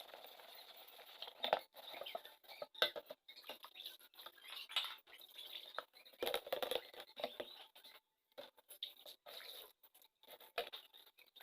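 Irregular rustling and scraping with many scattered light clicks and knocks, with a brief pause about two-thirds of the way through.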